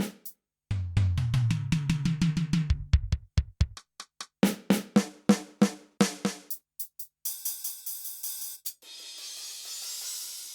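Kurzweil K2000 synthesizer playing a factory drum-kit program dry, with no effects: single drum and percussion hits struck one after another from the keyboard, ending in a long cymbal-like wash that fades out.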